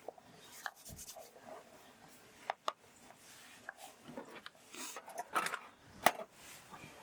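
Light rubbing with scattered sharp clicks and knocks of handled objects: two quick clicks about two and a half seconds in, and the loudest knock about six seconds in.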